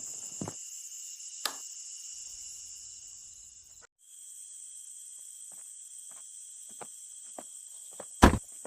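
A steady, high-pitched chirring background with scattered knocks and light clicks. The background cuts out briefly about four seconds in, then resumes, and a loud knock comes near the end.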